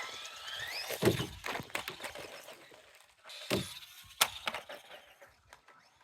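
Micro RC monster truck's 290-size brushed electric motor whining and rising in pitch as it speeds up. Then come hard knocks of the truck hitting the ground, about a second in and again around three and a half and four seconds, the last the loudest.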